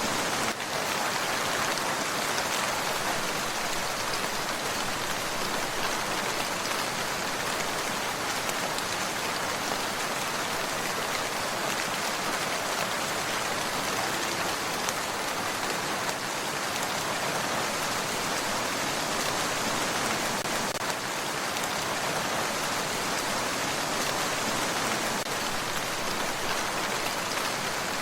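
Steady rain falling on a surface, an even hiss of many drops with no break.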